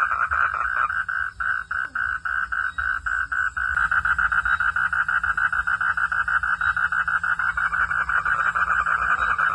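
Frogs calling at night in a fast, even, pulsing chorus that thickens about four seconds in, with a thin steady insect trill above it.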